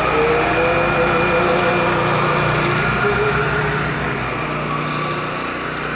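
Truck engine idling steadily, with an even low pulsing throb.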